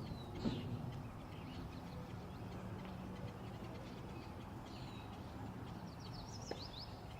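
Birds chirping a few times, ending in a quick run of short descending chirps, over a steady low background rush.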